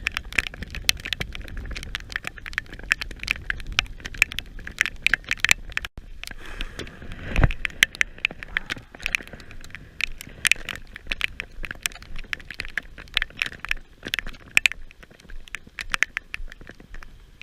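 Heavy rain, its drops tapping sharply and irregularly on the GoPro's waterproof case right at the microphone, with one duller thump about seven seconds in.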